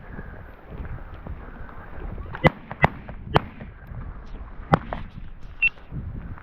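Four sharp shotgun reports: a quick pair, a third half a second later, then a fourth about a second and a half after that, with wind on the microphone between them.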